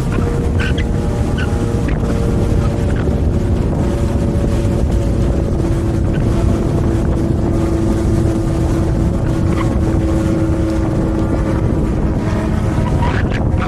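Wind rushing over the camera microphone while riding an e-bike, a steady loud low rumble with a faint even hum underneath.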